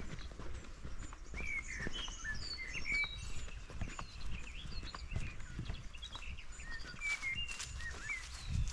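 Small forest birds chirping: many short, high calls scattered throughout, over the faint irregular thuds of someone walking.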